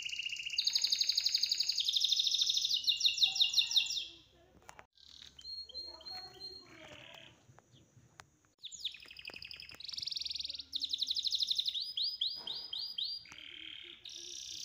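Birds chirping and trilling in fast, high-pitched runs of notes, falling silent for a few seconds in the middle and then returning with a string of quick falling whistles. Faint taps and rustles can be heard in the quiet middle stretch.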